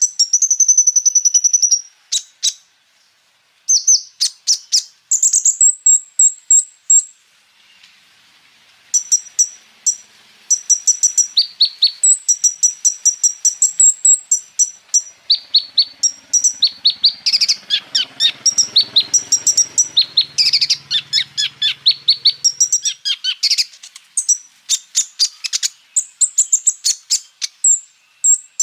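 A kolibri ninja sunbird singing, with rapid runs of sharp, high-pitched chips and rolling trills in quick series. There is a short pause a couple of seconds in, and then the song continues almost without a break.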